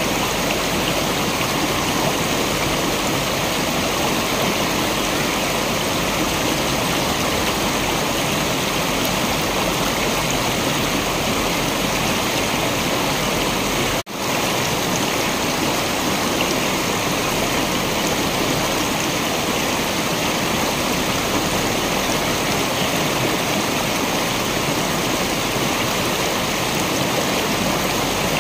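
Waterfall: a steady rush of falling water. It cuts out for an instant about halfway through.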